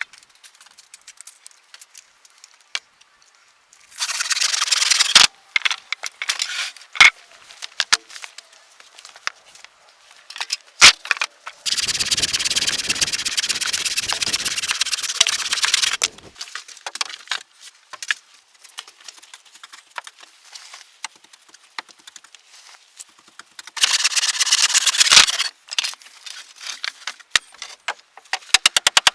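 Restoration work on a wooden cabin: scattered sharp knocks and clicks, with three bursts of harsh rasping noise, the longest lasting about four seconds near the middle.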